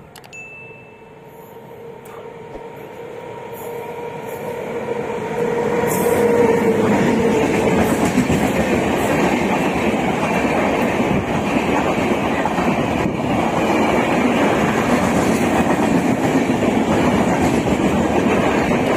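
Express passenger train running through a station without stopping: its rumble grows louder over the first six seconds as it approaches, then holds as a steady loud rumble and wheel clatter while the coaches roll past. A faint steady tone under the approach fades out about eight seconds in.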